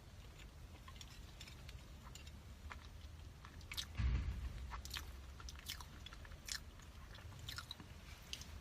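Close-miked chewing of a soft purple sweet potato bun, with small wet mouth clicks. A dull low thump about four seconds in is the loudest sound.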